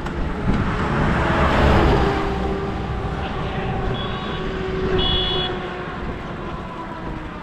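A motor vehicle running and passing close by on the road, its noise swelling in the first two seconds and then easing off. Two short high beeps come about four and five seconds in.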